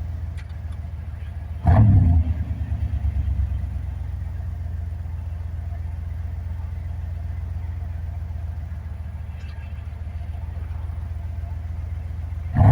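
1990 Pontiac Firebird's 5.0 V8 idling with a deep, steady burble through an OBX Racing aftermarket exhaust. The throttle is briefly blipped about two seconds in and again right at the end.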